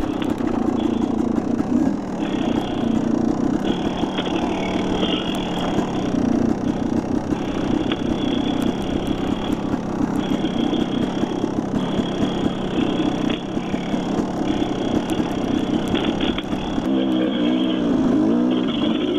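Dirt bike engine running through changing throttle on a trail ride. Near the end it settles to lower revs with a wavering pitch.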